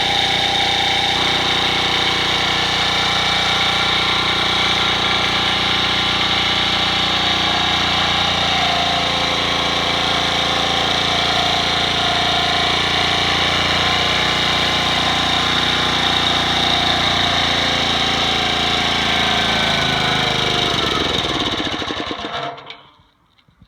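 Bradley Edlund overhead-valve four-stroke engine driving its Power Bug generator, running steadily. About 20 seconds in it slows, falling in pitch, and stops about two seconds later: it has run out of fuel after the gas was shut off.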